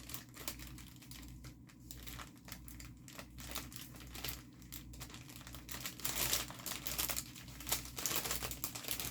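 Plastic crinkling in irregular bursts as a diamond painting kit is handled and searched, busier from about six seconds in, over a faint steady low hum.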